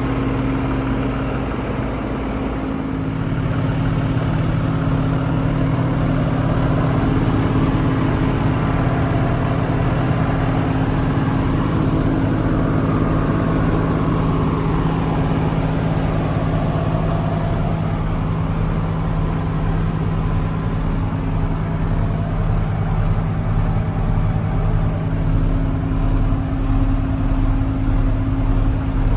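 Diesel engine running at a steady idle, its note shifting slightly about three seconds in and then holding steady.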